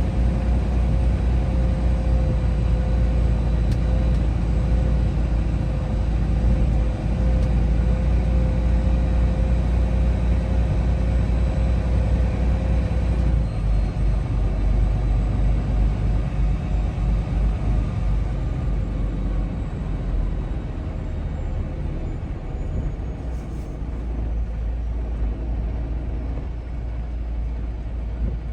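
Semi truck driving, its engine and road noise heard from inside the cab as a steady low rumble that eases off and grows quieter about halfway through.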